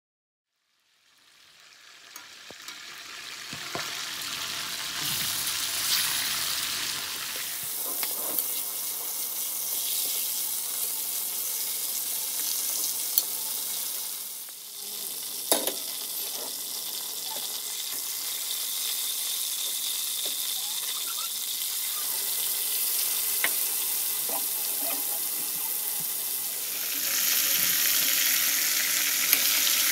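Chicken legs in a yogurt and garlic-ginger marinade sizzling as they shallow-fry in oil in a metal karahi. The sizzle fades in after a second of silence, with a few sharp clicks along the way, and grows louder near the end as a piece is turned with tongs.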